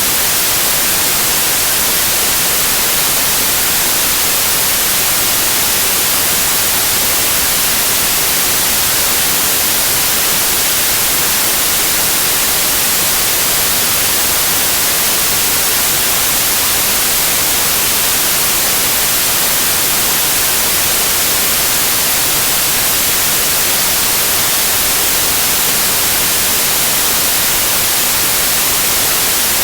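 Steady TV static white noise: an even hiss, strongest in the high end, with no change.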